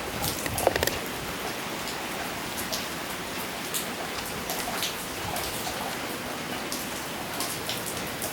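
Steady rain pattering, with scattered drips and ticks and a short cluster of louder clicks just under a second in.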